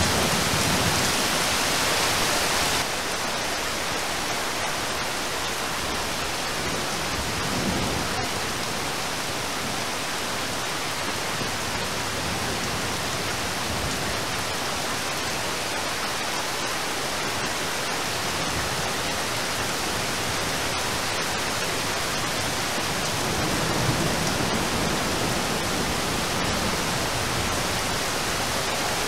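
Steady heavy rain hissing down onto a river's surface, a little louder for the first three seconds. Low rumbles of distant thunder come in near the start, about eight seconds in and again around twenty-four seconds.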